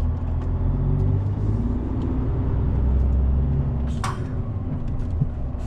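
Truck tractor unit's diesel engine pulling under throttle on an uphill climb, a steady low drone heard from inside the cab. A brief sharp noise about four seconds in.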